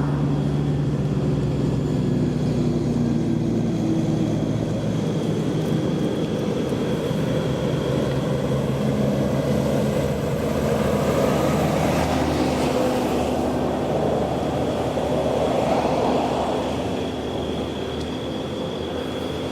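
A vehicle engine idling steadily under a broad rushing noise that swells a little twice.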